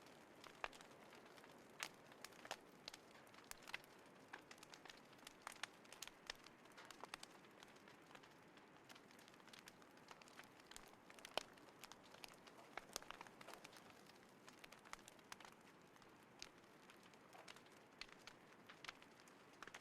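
Small wood fire crackling in a folding fire pit: irregular sharp pops and snaps, a few louder than the rest, over a faint soft hiss.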